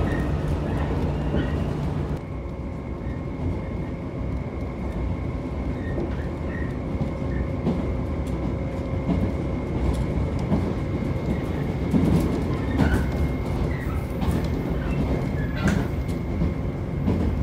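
Electric train running, heard from inside the passenger car: a steady low rumble of wheels on rail with scattered faint clicks. A low hum stops about two seconds in, and a faint steady high whine continues underneath.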